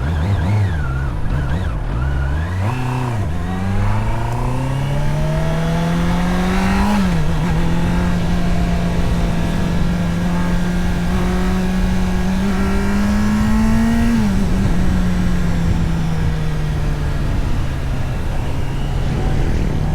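Honda CBR650R's inline-four engine, with a few short revs rising and falling, then pulling steadily higher in pitch. The pitch drops sharply twice, about seven and fourteen seconds in, as with upshifts, and the engine runs steadily in between and afterwards.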